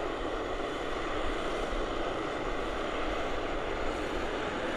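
Airliner jet engines running: a steady, even noise with a few faint steady whining tones in it.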